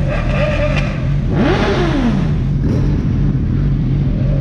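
Sport bike engines idling, with one quick rev that rises and falls in pitch about a second and a half in.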